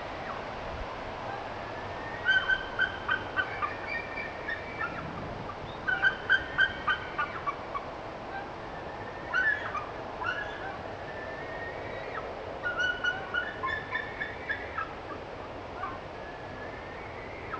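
Bird song played back slowed down: four bouts of quick repeated notes, each lasting one to three seconds, over a steady background hiss.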